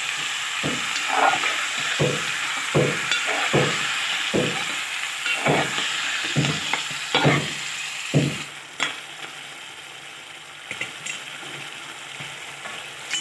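Moringa drumstick pieces frying in tomato paste and spices in a metal pot, sizzling steadily while a metal spoon stirs and scrapes against the pot again and again. The stirring stops after about eight seconds and the sizzle goes on, quieter.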